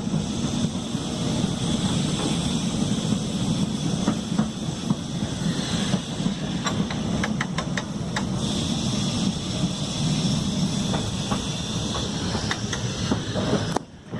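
Heritage electric tram running along the track, heard from on board: a steady rumble, with a quick run of clicks from the wheels over the rail joints about halfway through.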